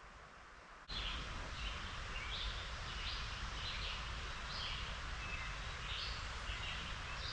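A songbird calling in short repeated phrases, roughly two a second, over a steady rushing hiss. Both start abruptly about a second in.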